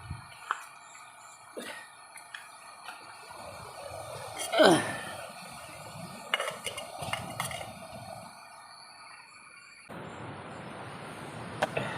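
Scattered light clinks and knocks of metal camp cookware, with one louder sound sliding down in pitch about halfway through. About ten seconds in, a steady rushing noise cuts in abruptly.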